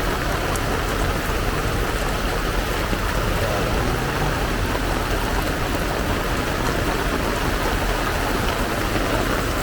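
Heavy downpour: a steady, dense hiss of rain falling.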